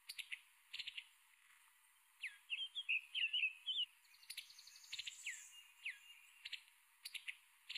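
Birds chirping: short falling whistles repeating about once a second, with a quick warbled phrase about two and a half seconds in.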